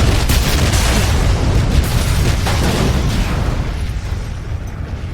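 Movie explosion sound effect: a heavy rumble with dense crackles, dying away over the last second or two.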